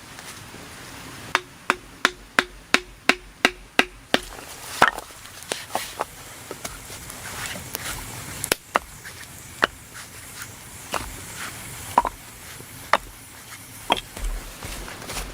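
Hand tool striking wood: a quick, even run of about nine strikes, roughly three a second, each with a short ring. Then scattered single knocks and taps.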